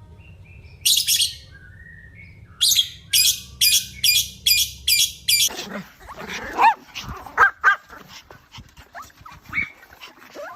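Dogs: a quick run of sharp barks, about two a second, then an abrupt switch to many overlapping high whines and yelps.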